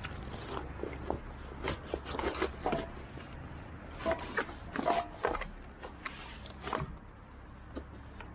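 A run of irregular clicks, scrapes and rustles, thickest around two and five seconds in, over a low steady rumble.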